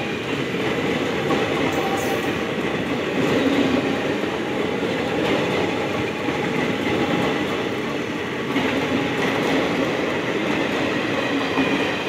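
Indian Railways ICF passenger coaches rolling past at close range, their wheels running on the rails in a steady rumble.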